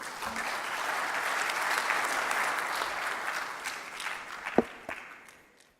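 Audience applause that builds over the first second or so and fades out near the end, with a single sharp knock about four and a half seconds in.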